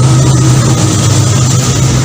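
A train locomotive running past with a steady, loud low drone and rumbling noise, no horn.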